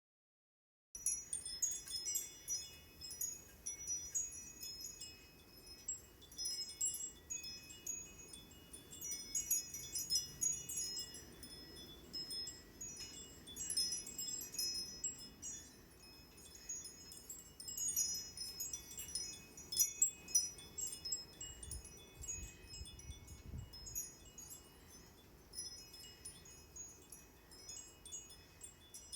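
Wind chimes jangling irregularly in gusty blizzard wind, many bright ringing notes rising and falling with the gusts, over a low rumble of wind.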